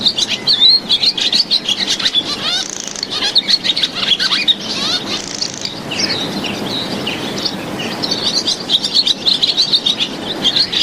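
Swallow twittering: a dense run of quick, high chirps and warbles, with a steady low background hiss underneath.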